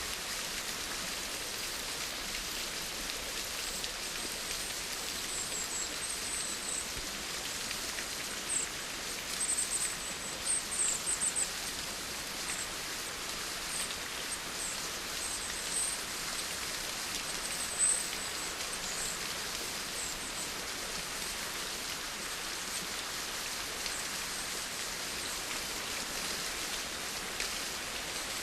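Steady rain falling, an even hiss of drops. Short high-pitched chirps come and go over it during the first two-thirds.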